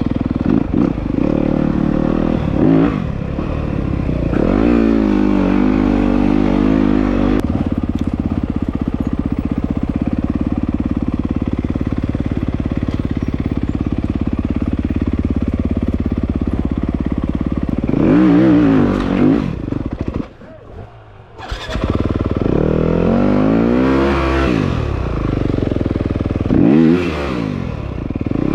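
Dirt bike engine running while being ridden, the revs rising and falling over and over as the throttle is worked. About twenty seconds in the engine sound drops away for a second or so, then picks up again.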